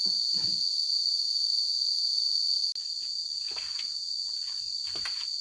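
A steady insect chorus, a continuous high-pitched trill such as crickets make, runs through. A few soft knocks and handling sounds come near the start and again in the second half. The sound dips briefly about three seconds in, then the insect chorus carries on a little quieter.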